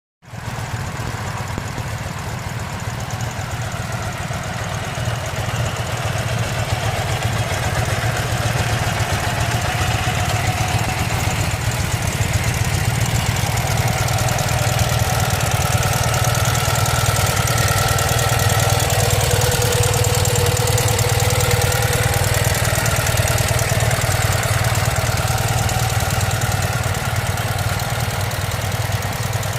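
Ural 750 sidecar motorcycle's air-cooled flat-twin engine idling steadily, getting a little louder over the first several seconds.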